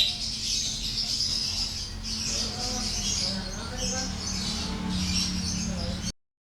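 Many caged birds chirping and chattering together over a low steady hum; the sound cuts off about six seconds in.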